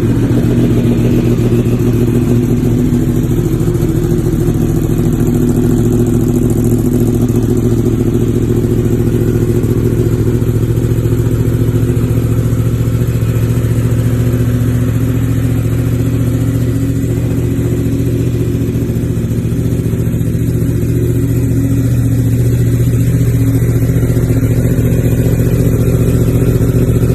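Yamaha R1M's crossplane inline-four engine idling steadily just after a cold start.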